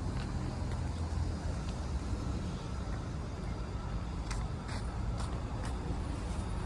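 City street ambience: a steady low rumble of road traffic, with a few short sharp clicks or taps in the second half.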